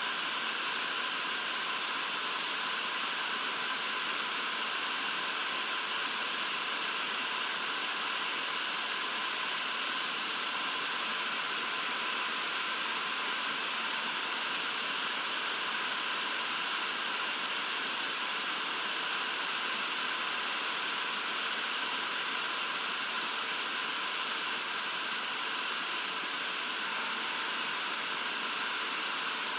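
Electric nail drill running at a steady high speed, a continuous whine over a hiss, as it files off old gel polish.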